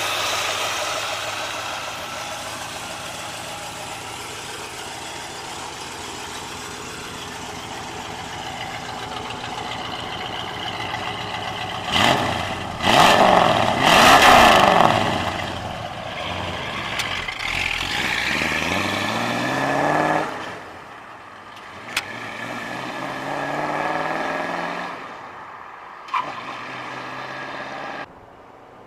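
1964 Mercury Comet's 289 V8 with headers, running steadily, then revved sharply a couple of times about twelve seconds in. The car then pulls away with the engine pitch rising, eases off, accelerates again and fades.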